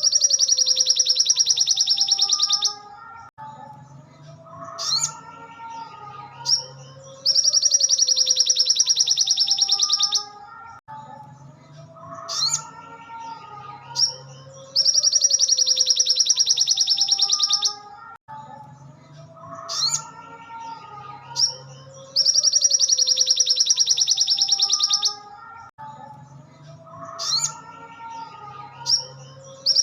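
Looped song of a sogon (sogok ontong sunbird): a loud, high, very rapid staccato trill lasting about three seconds, repeating about every seven and a half seconds, with lower whistled warbling notes between the trills.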